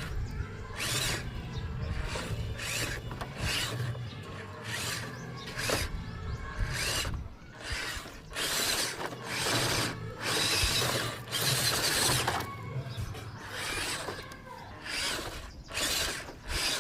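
Small electric gear motors of a 1:14 scale RC dump truck toy whirring in repeated short bursts of uneven length over a steady low hum, the grinding of gearboxes as the truck is driven and worked by remote.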